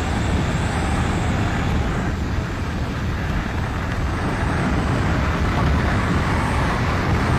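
Steady engine drone and rushing wind of a light aircraft in flight, an even low rumble with no breaks.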